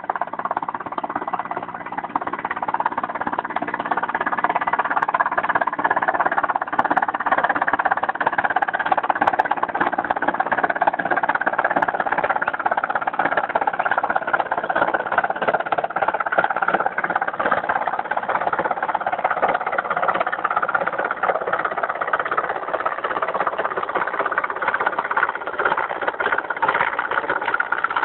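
Mi-17V5 helicopter's engines and rotor running steadily, a loud, dense mechanical drone that grows louder over the first few seconds.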